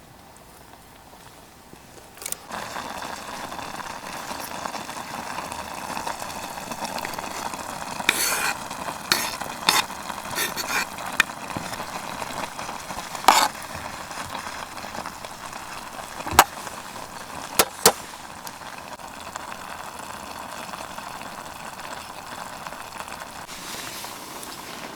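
Food sizzling in a hot pan, the hiss starting suddenly about two seconds in and holding steady, with several sharp clinks and taps of metal utensils.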